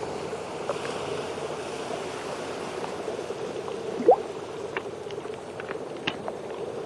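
Underwater reef ambience: a steady watery hiss with scattered faint clicks, and a short rising squeak about four seconds in.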